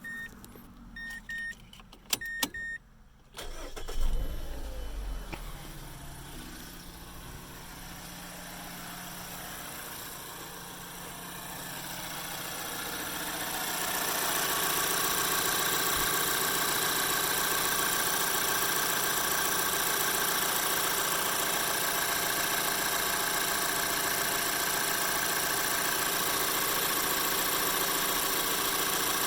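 Three short electronic beeps, then the 2012 Mazda 3's 2.0-litre Skyactiv four-cylinder engine is started about four seconds in and settles into a steady idle. This is its first start after new NGK spark plugs are fitted, to check that it runs properly. The engine sound grows louder around twelve seconds in and then holds steady.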